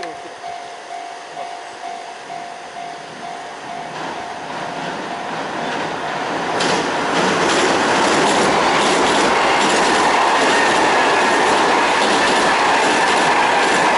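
Kintetsu Minami-Osaka Line electric train approaching and passing on the Yamato River railway bridge. Its rumble and wheel clatter grow louder over the first half and stay loud as the cars go by.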